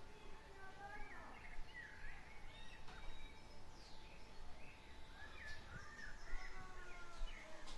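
Birds singing and chirping: a string of short warbling, whistled phrases and quick downward-sweeping notes, over a faint low outdoor rumble.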